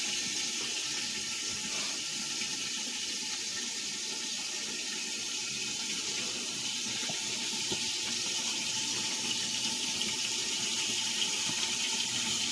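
Chicken liver frying in olive oil in a lidded pan: a steady, even sizzle.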